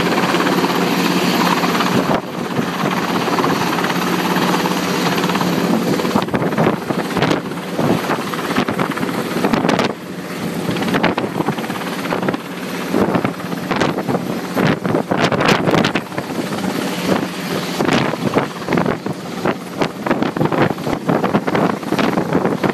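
Helicopter engine and rotor running at full power during takeoff, loud and steady, with gusts of wind buffeting the microphone through the second half.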